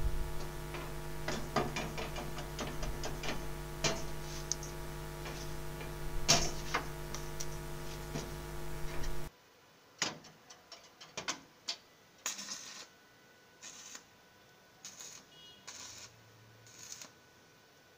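Scattered light clicks and taps over a steady electrical hum. About nine seconds in the hum cuts off abruptly, leaving only sparse faint clicks separated by silence.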